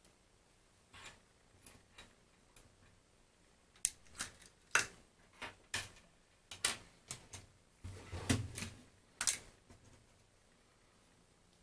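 Irregular clicks and taps of small plastic parts and tools being handled on a workbench, denser and louder in the second half, with a duller knock about eight seconds in.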